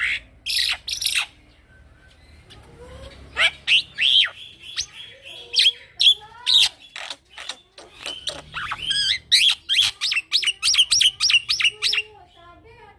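Young male black-winged myna (jalak putih) singing continuously: a varied string of sharp sliding whistles, chirps and harsh notes, with a brief lull about two seconds in and a fast run of repeated calls near the end.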